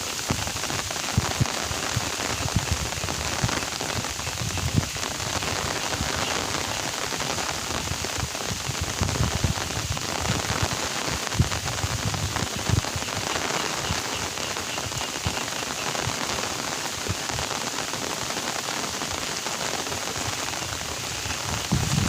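Steady rain falling, an even patter with many scattered louder drop hits.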